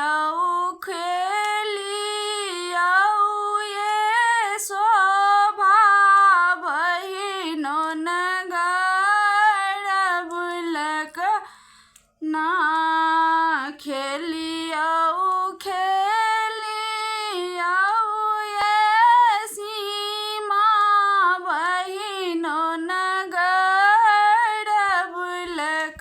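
A woman singing a Sama-Chakeva folk song in a single melodic line, stopping briefly just after the middle of the verse.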